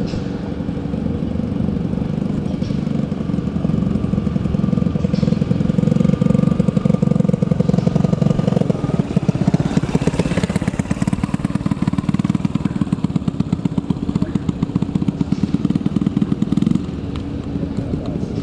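A boat's engine running close by with a rapid, even putter; it grows louder about six seconds in and drops suddenly in level near the end.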